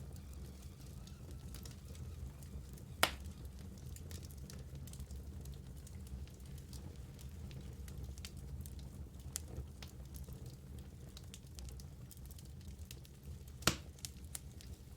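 Wood logs burning in a fireplace: a steady low rumble of flame with scattered small crackles. Two louder sharp pops come about three seconds in and near the end.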